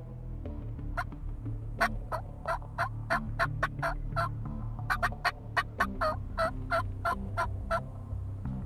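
Turkey yelps: a long run of short, sharp notes, about three a second, in several bursts over about seven seconds.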